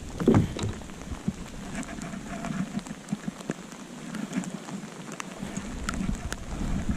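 Rain falling, with scattered drop ticks close by and one dull thump just after the start.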